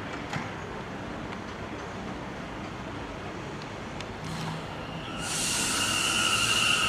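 New York City Subway train on the track: a steady rumble with a few faint clicks, then about five seconds in a loud wheel squeal sets in, two steady high tones over a hiss.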